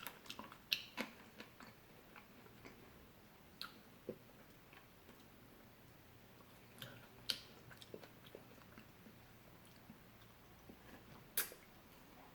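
A person chewing and biting into fresh fruit close to the microphone, faint, with scattered sharp mouth clicks and crunches; the loudest come about a second in, near seven seconds and near eleven seconds.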